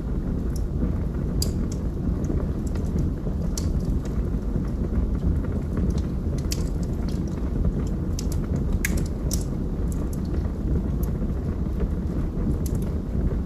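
Wood fire burning in a fireplace: a steady low rumble of flames with sharp crackles and pops from the burning logs, irregular, about one or two a second.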